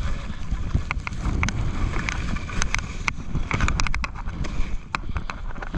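Skis running through deep powder snow with wind rumbling on the microphone, and scattered sharp clicks and ticks throughout.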